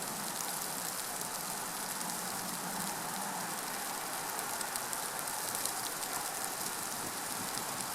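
Steady patter of precipitation falling on surfaces: a constant hiss scattered with many fine, quick ticks.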